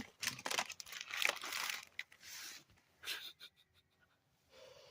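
Plastic packaging crinkling with light clicks of small parts being handled, as the contents of a carburetor rebuild kit are sorted through; most of it falls in the first three seconds.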